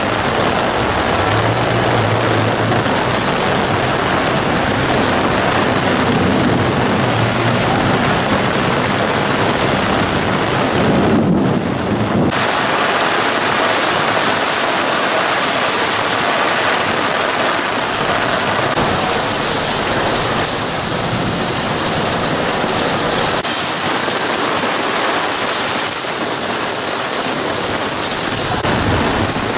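Heavy rain pouring steadily onto wet pavement and standing water, a loud, even hiss of a thunderstorm downpour, with a low rumble beneath it in the first several seconds.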